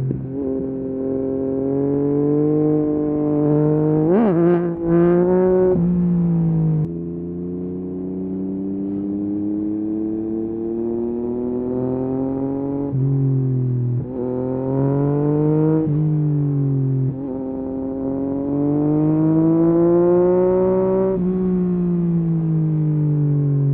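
Yamaha MT-09 SP's inline three-cylinder engine through a full Akrapovic race exhaust, accelerating hard. The pitch climbs and drops back at each of several gear changes, with a couple of quick rev blips about four seconds in.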